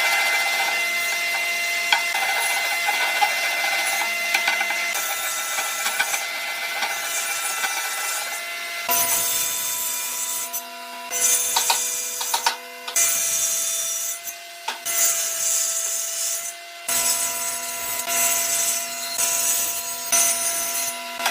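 A tool cutting or rubbing wood in stretches of scratchy strokes that stop and start, with steady tones held underneath.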